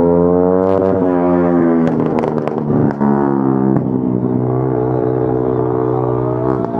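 Superbike engines revving hard at a standstill, holding high revs with the pitch shifting a few times, plus a few sharp crackles about two seconds in.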